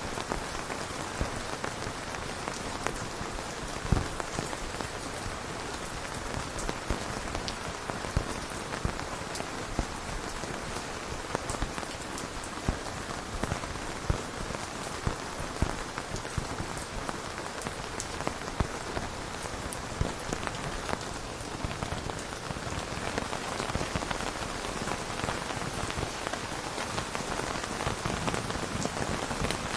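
Steady rain falling, with frequent sharp individual drop hits standing out over an even hiss.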